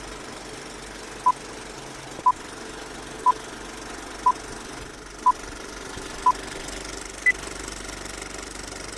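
Electronic countdown beeps: six short beeps one second apart at one pitch, then a single higher beep, over a steady background hum.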